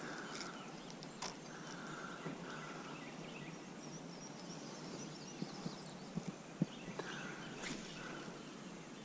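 Faint creekside ambience with birds calling, and a few sharp clicks and taps in the second half.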